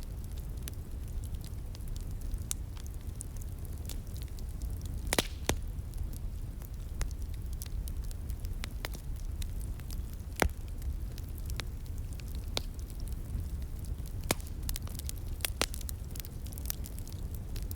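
Slowly burning fire crackling: irregular sharp pops and snaps, the loudest about five and ten seconds in, over a steady low rumble.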